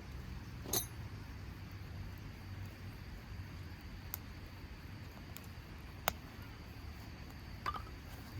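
Four sharp, isolated clicks spread over several seconds, over a low steady rumble.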